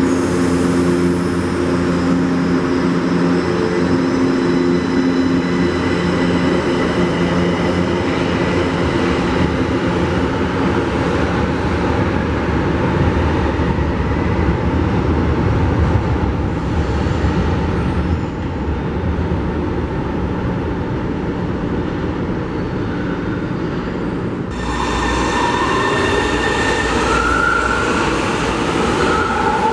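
São Paulo Metro train running through the station: a steady rumble of wheels on rails with the whine of its traction motors, which fades over the first few seconds. About 25 seconds in the sound changes abruptly and new whining tones glide upward.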